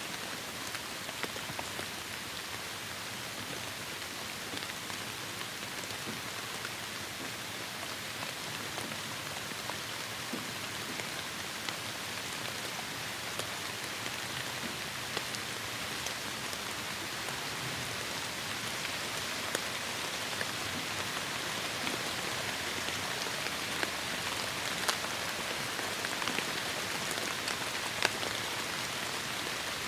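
Heavy rain falling steadily, an even hiss with many sharp drips and drop ticks spattering through it, growing slightly heavier toward the end.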